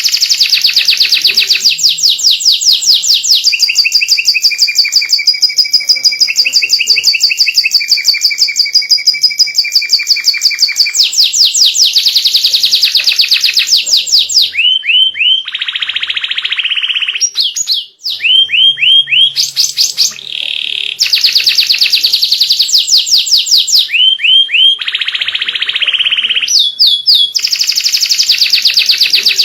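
White canary singing without stopping: long, fast rolled trills of rapidly repeated high notes, broken by two harsher buzzy phrases. There is a brief break about eighteen seconds in.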